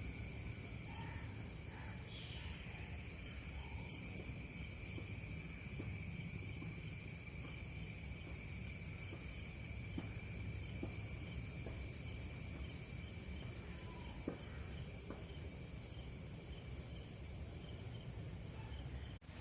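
Insects chirring steadily at several high pitches, with a faint chirp repeating about twice a second, over a low steady rush of background noise.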